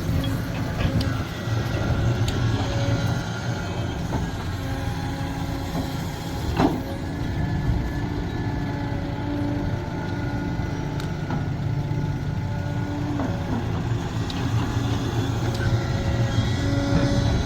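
Sumitomo SH370LHD-6 excavator working: the diesel engine runs steadily under a hydraulic whine whose tones come and go as the machine moves. There is a single sharp knock about six and a half seconds in.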